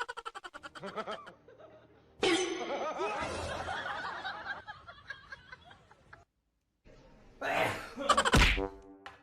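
A person laughing in a quick run of pulses that fades out, followed by other short bursts of noise.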